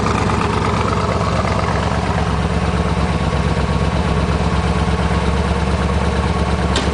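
1968 Corvette's 1972 LT-1 350 small-block V8 idling steadily, with one brief high click near the end.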